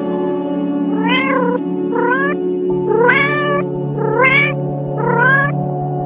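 Domestic cat meowing five times, about once a second, each meow a short call that rises and then falls in pitch, over steady ambient background music.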